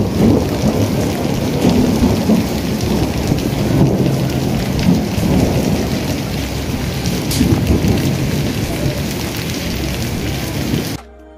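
Heavy rain pouring down, a dense steady hiss over a low rumble, cutting off suddenly near the end.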